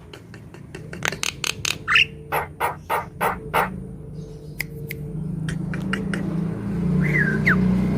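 Javan myna calling: a rapid run of harsh, clicking notes with a short rising whistle among them, then a sliding whistle near the end. A low steady hum grows louder in the second half.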